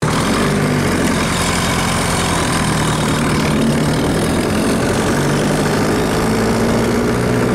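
Tractor engine running steadily and loudly, heard from on or beside the tractor.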